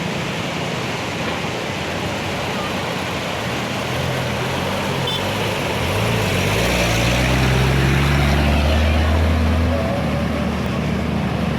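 Motor vehicles driving through flood water: a steady wash of engine and road noise, with a deep engine rising in pitch and growing louder from about six seconds in, then easing off near ten seconds as a heavy vehicle passes.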